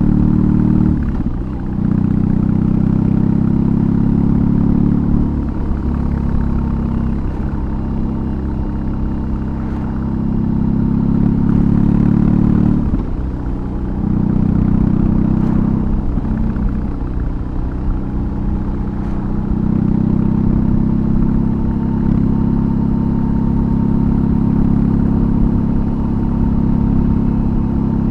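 BMW R18's big air/oil-cooled boxer twin with a custom exhaust running under way, a deep steady engine note that drops briefly a few times as the throttle eases off and then pulls again.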